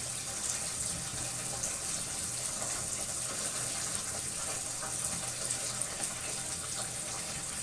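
Tap water running steadily into a sink as a part of a Dyson vacuum is rinsed clean.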